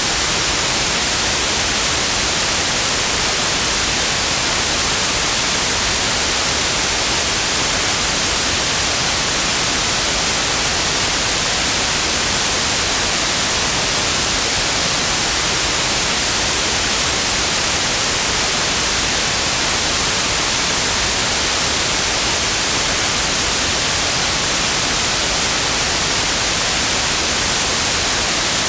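Steady, unchanging white noise: an even hiss that is strongest in the high frequencies.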